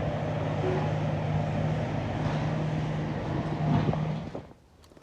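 Steady low drone of a vehicle's engine and road noise heard inside the cab. It cuts off suddenly about four seconds in.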